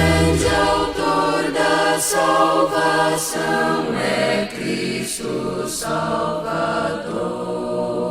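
Vocal group singing a gospel hymn in several-part harmony, with little or no instrumental backing.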